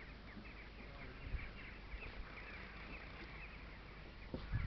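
Small birds chirping rapidly and continuously, many short calls overlapping. A low thump comes shortly before the end.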